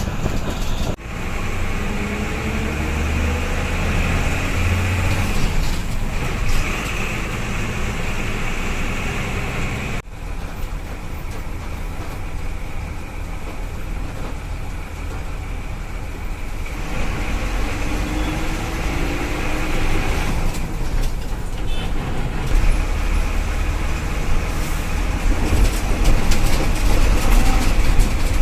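Tata diesel bus on the move: engine and road noise, with the engine pitch rising as it accelerates, twice. The sound changes abruptly about a second in and again about ten seconds in.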